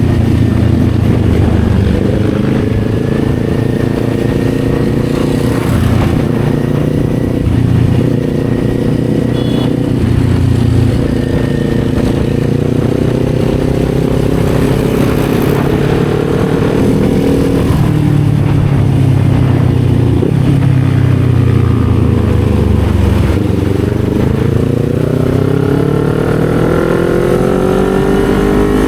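Kawasaki Z400 parallel-twin engine running on the move, its note mostly steady. About three-quarters of the way through it dips, then rises steadily as the bike accelerates through the revs.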